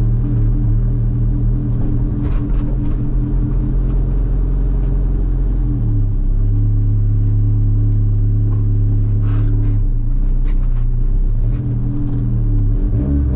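Honda Civic driving, heard from inside a cabin lined with Spectrum sound deadening: a steady low engine and road drone. The engine note shifts about six seconds in and again near the end, with a few faint ticks and rattles over it.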